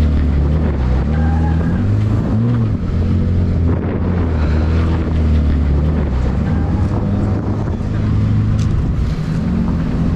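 A vehicle engine running steadily, its low hum shifting in pitch a few times, with wind buffeting the microphone.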